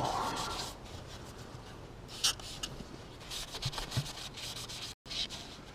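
Rag wiping and scrubbing a tractor's metal transmission casing with isopropyl alcohol to clean it, in short scratchy rubbing strokes with a few light knocks.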